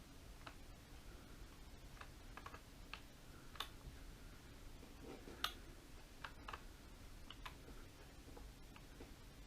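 Faint, irregular clicks and taps, about a dozen, two of them louder in the middle, over quiet room tone.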